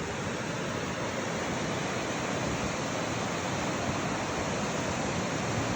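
Waterfall on the Machias River rushing steadily, an even wash of water noise without breaks.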